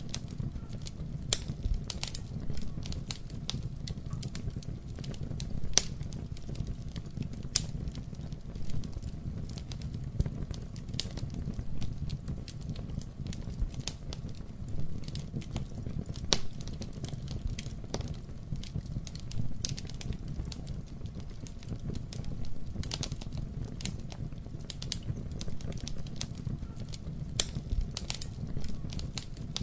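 Campfire burning: a steady low rumble of flame with frequent sharp, irregular crackles and pops of burning wood.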